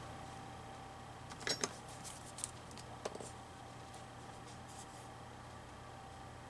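A few faint, brief rustles and clicks of paper being handled, about one and a half, two and a half and three seconds in, over a steady low hum.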